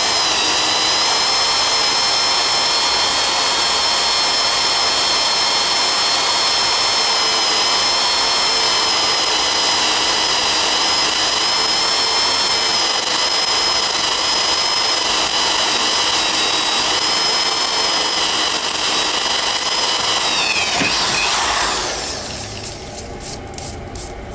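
Milling machine used as a drill press, drilling mild steel: the spindle runs with a steady high whine, then slows and winds down about 21 seconds in, leaving a quieter run-down before the sound cuts off.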